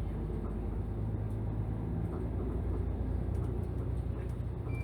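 A city bus's engine and drivetrain running under way, heard from inside the passenger cabin as a steady low hum. A stronger engine note sets in about a second in.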